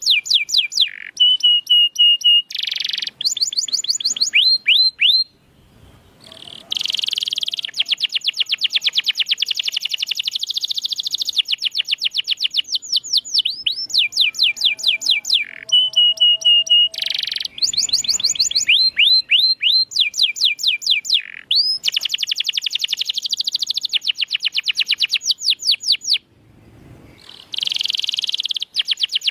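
Domestic canary singing: long, fast trills of rapidly repeated high down-sweeping notes, mixed with a few short held whistles. The song breaks off briefly twice, about five seconds in and near the end.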